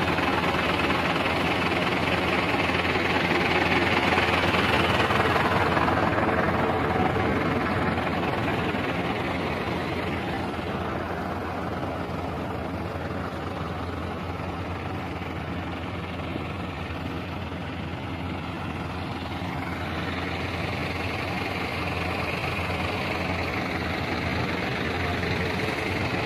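Tractor engine running steadily under work. It grows a little quieter and duller in the middle, then rises again.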